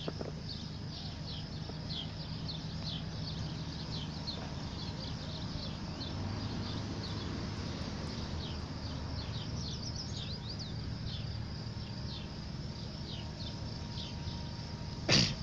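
Small birds chirping over and over: many short, high notes that slide downward, over a steady low background hum. A brief loud bump comes near the end.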